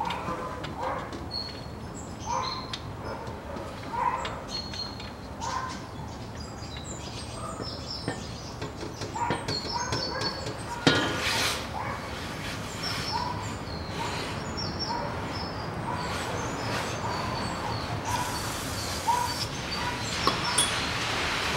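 Birds chirping in short, repeated notes, with a single sharp click about halfway through and a rushing noise building near the end.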